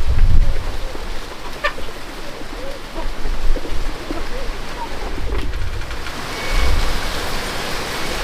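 Steady rain falling, with a few short bird calls in the first half and low rumbles near the start and again about two-thirds of the way through.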